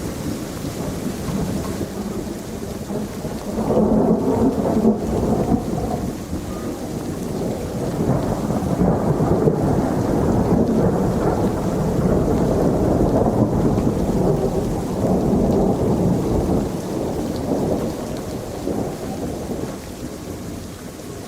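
Rolling thunder over steady rain. The rumble swells about four seconds in, stays strong through the middle, and fades near the end.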